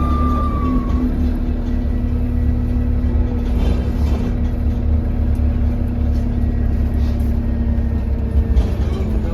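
Alexander Dennis Enviro200 bus engine and drivetrain running on the move, heard from inside the cabin as a deep rumble with a steady hum. A whistling tone fades out about a second in: the turbo whistle that the uploader puts down to a turbo leak.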